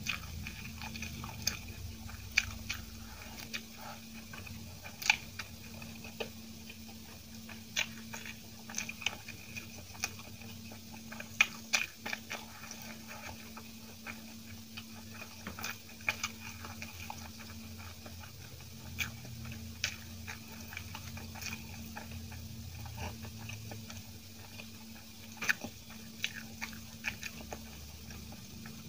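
Close-miked chewing of soft steamed idli with chutney: wet mouth clicks and smacks at irregular intervals, over a steady low hum.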